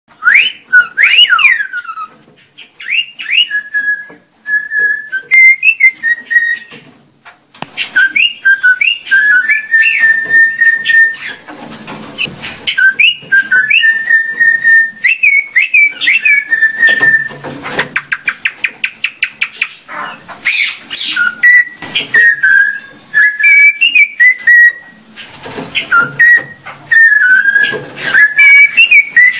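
A tame pet bird whistling in repeated phrases of clear notes that glide up and down, with a quick run of rapid clicking notes about two thirds of the way through.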